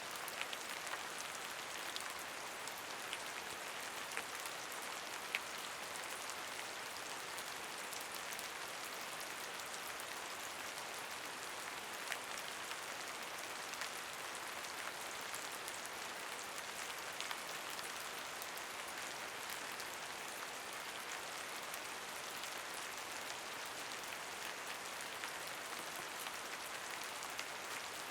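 Steady rain falling, an even hiss with scattered sharper taps of individual drops hitting a surface.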